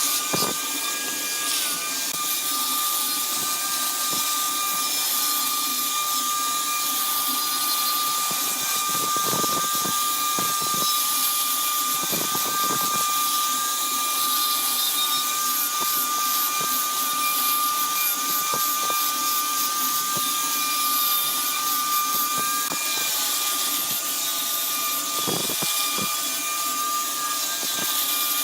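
Wood lathe running with a steady high-pitched whine and a second tone that wavers slightly above it, over a continuous hiss of a tool cutting the spinning wood.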